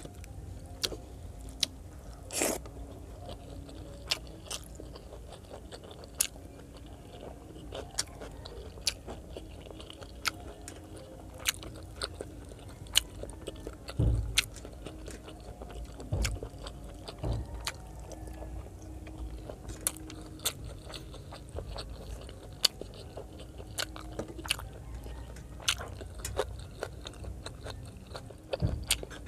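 Close-miked chewing and biting of pork adobo and rice, with sharp wet mouth clicks many times over and a few heavier crunchy bites.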